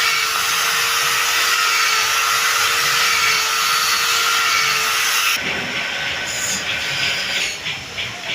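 A woodworking power tool running steadily with a constant whine, cutting off abruptly about five seconds in. It is followed by rhythmic scraping strokes on wood, about two or three a second, near the end.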